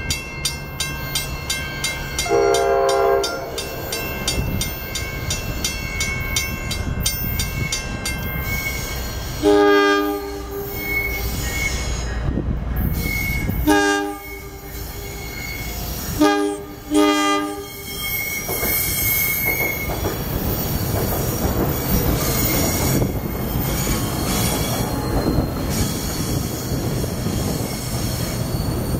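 An approaching NJ Transit Arrow III electric multiple-unit train sounds its horn in a series of blasts: one about two seconds in, a long one around ten seconds, then three shorter ones between fourteen and eighteen seconds. It then runs past with steady wheel-on-rail noise. A bell rings rapidly for the first eight seconds or so.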